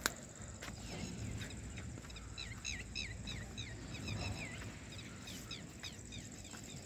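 Small birds chirping in quick series of short, sliding high notes, busiest in the middle of the stretch, over a low outdoor rumble. A single sharp click comes right at the start.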